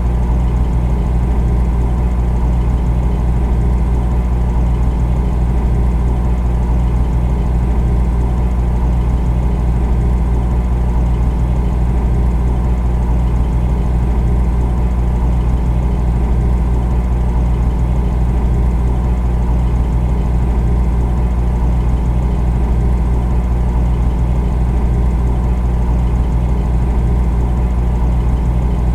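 Refrigerator running with a steady, unchanging low hum.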